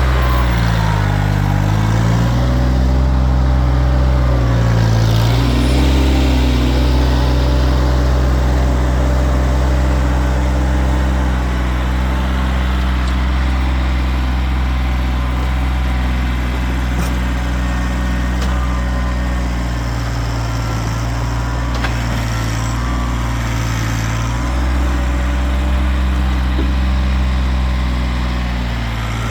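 Kioti tractor's diesel engine running steadily and loudly. Its pitch dips briefly and recovers about a second in, again around five seconds, and again a little after twenty seconds.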